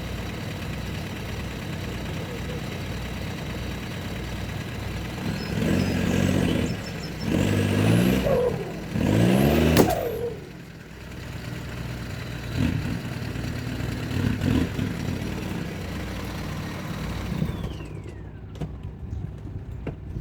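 Mini truck's small engine idling, then revved hard three times in quick succession as it strains to pull a rooted buckthorn out on a tow line, before dropping back to idle.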